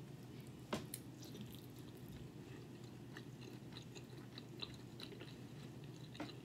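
Soft, faint chewing of a mouthful of bacon, egg and cheese omelette with salsa, with a few small wet mouth clicks; two sharper clicks come about a second in.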